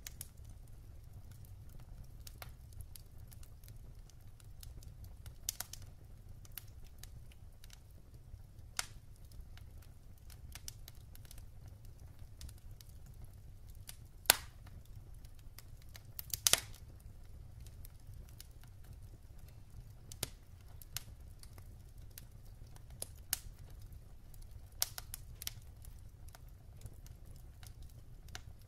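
Wood fire crackling in a fireplace: scattered, irregular pops and snaps of burning logs, with one sharp loud pop about halfway through and a quick cluster of pops a couple of seconds later, over a steady low rumble.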